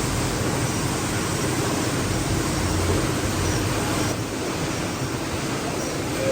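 Steady, loud rushing noise with no distinct strokes or tones; its higher part drops away about four seconds in.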